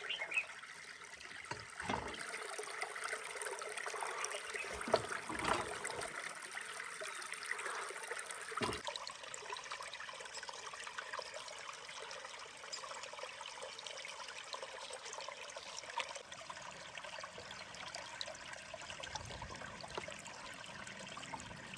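Water running steadily, with a few light knocks and clicks during the first nine seconds.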